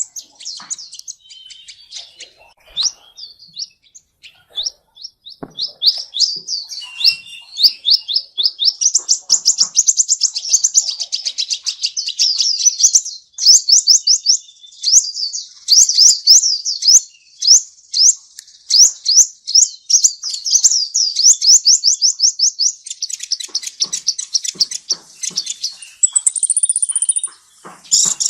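Small songbird calling in long, fast runs of high, sweeping chirps, about five a second, with a brief steady whistle near the end.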